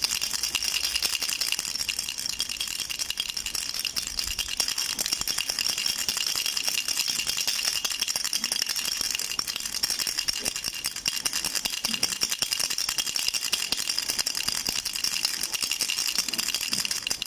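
Duck baby rattle shaken without a break: a continuous, fast, bright rattling of small beads.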